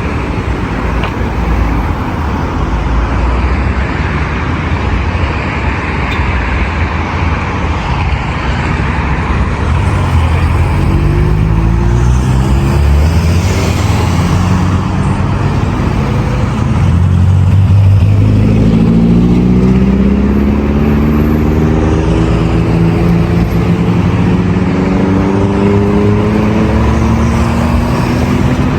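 Busy city boulevard traffic: a steady roar of cars passing with tyre noise. About ten seconds in, and more strongly past the middle, vehicle engines can be heard rising in pitch as they accelerate.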